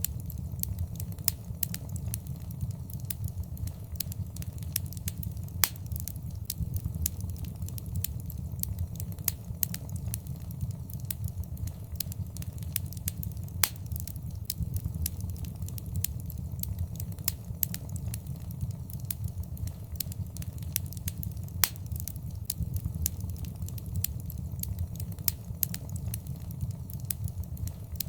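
Fireplace fire crackling: a steady low rumble of flames with frequent sharp crackles and pops, and a few louder snaps scattered through.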